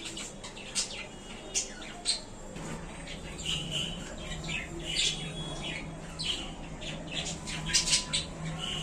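Budgerigars chattering in a cage: a run of quick, sharp chirps and squawks, busiest near the end.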